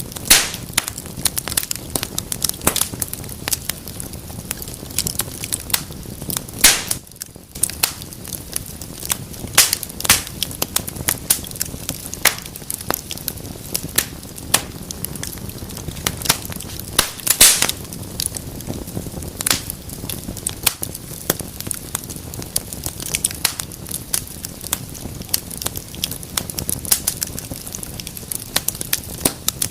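Wood fire crackling in a fireplace: a steady low hiss with irregular snaps and a few louder pops.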